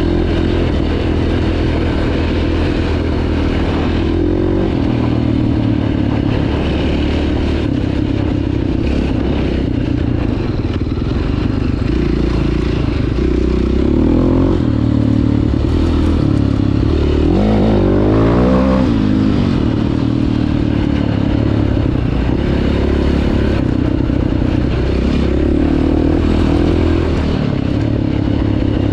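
2009 KTM 530 EXC's single-cylinder four-stroke engine running under way off-road, its pitch shifting with throttle and gear changes, with a quick rev up and back down about two-thirds of the way through.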